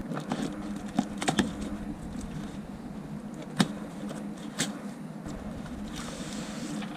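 Scattered light clicks and taps from unpacking a boxed Ryobi router and its parts, over a steady low hum.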